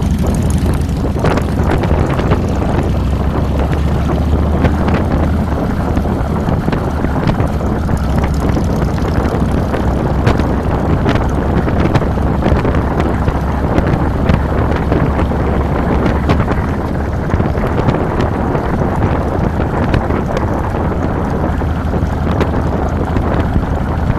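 2007 Harley-Davidson Fat Boy's Twin Cam 96 V-twin engine running steadily while riding, heard from a handlebar-mounted camera, with wind buffeting the microphone.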